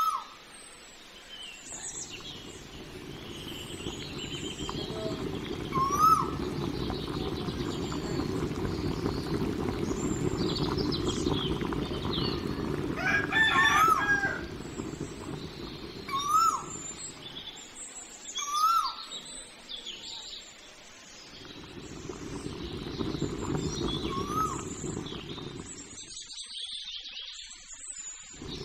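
Birds chirping, with repeated short rising calls, and a rooster crowing once about halfway through. A steady low rushing noise runs underneath and drops away twice.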